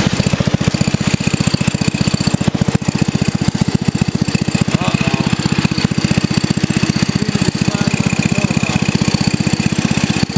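Craftsman riding lawn tractor engine running steadily under way, its rapid even firing pulses with a steady high whine above them.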